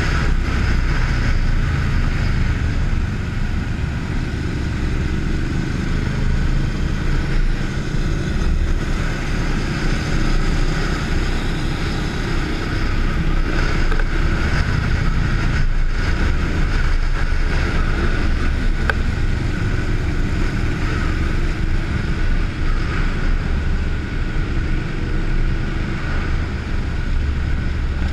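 Motorcycle running steadily at road speed, its low engine rumble mixed with wind rushing over the microphone.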